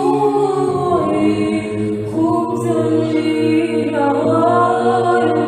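Women's choir chanting a Byzantine psalm setting in Arabic, unaccompanied, in the third tone. A steady low drone (ison) is held beneath a melody line that moves in glides and steps.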